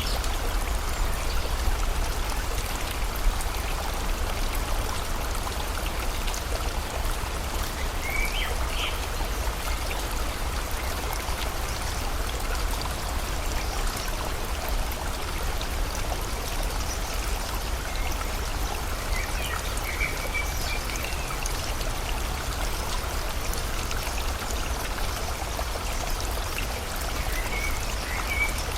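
Steady rush of flowing river water with rain falling, and a few short bird chirps, about three times.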